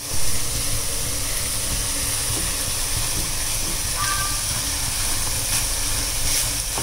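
Beaten eggs frying in a hot kadai of broccoli and coconut, giving a steady sizzling hiss.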